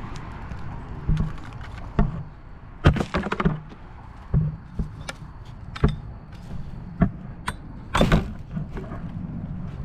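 Litter being gathered and tossed into a bucket: irregular knocks, clatters and thumps, a dozen or so, the loudest about three seconds in and again near the end, over a steady low rumble.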